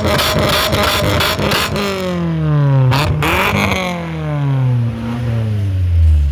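Car engine being revved hard: held at high revs with a rapid, even stutter for about two seconds, then the revs fall away, blip up once briefly about three seconds in, and drop again to low revs near the end.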